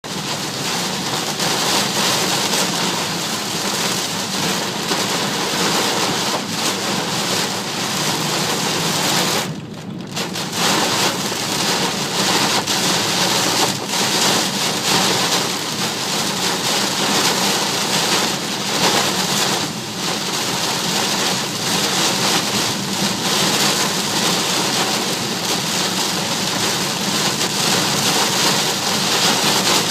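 Heavy rain falling on a moving car: a loud, steady, dense hiss that briefly drops away for about a second some ten seconds in.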